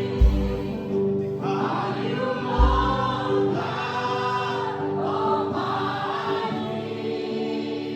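Gospel worship music: voices singing together over sustained keyboard chords, with two deep thumps in the first three seconds.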